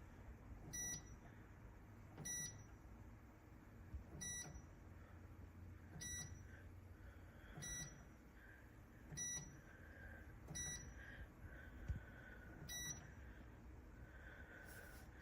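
Midea Flexify toaster oven air fryer beeping: eight short electronic beeps, one every one and a half to two seconds, that stop near the end.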